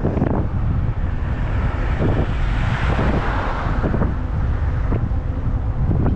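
Wind buffeting the microphone of a moving e-bike, a steady low rumble. A broader rushing hiss swells and fades again in the middle.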